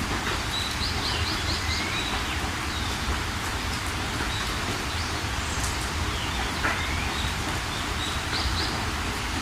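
Steady rain falling, with songbirds calling over it: a quick run of short high notes about a second in, then scattered chirps and falling calls through the rest.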